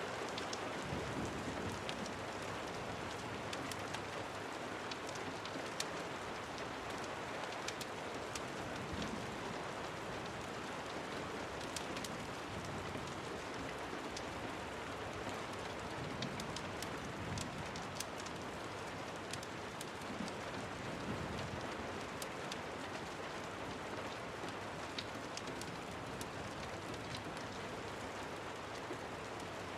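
Steady rain with scattered sharp crackles of a wood fire.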